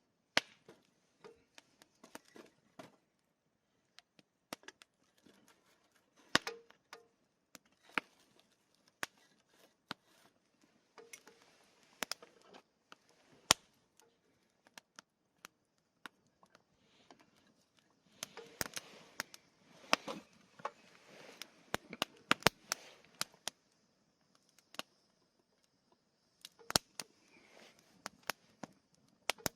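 Wood campfire crackling: irregular sharp pops and snaps over a soft hiss, with a busier spell of crackling about two-thirds of the way through.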